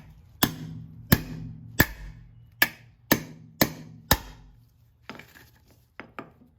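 An OTF knife's blade being driven into a wooden block with seven hard strikes, each a sharp knock with a short ring, coming about every half second. A few lighter knocks follow near the end.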